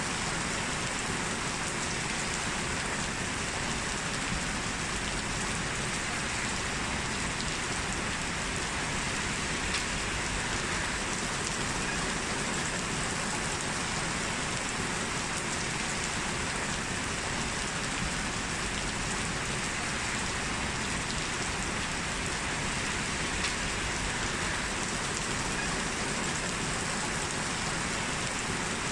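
Heavy rain falling steadily, a dense even hiss with occasional single drop ticks.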